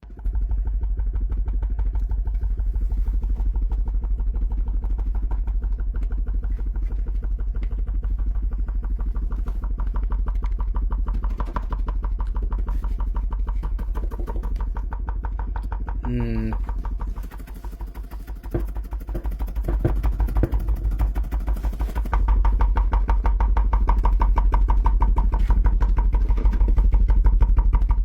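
A 15-inch Sony Xplod subwoofer driven hard with a deep bass tone, distorting with a harsh buzzing rattle; its voice coil is already half burnt and its cone sunk in. It gets louder about 22 seconds in.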